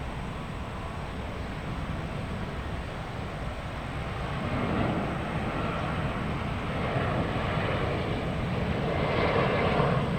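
Jet airliner's engines, a low rumble that swells into a louder rushing roar from about four seconds in as the aircraft draws nearer.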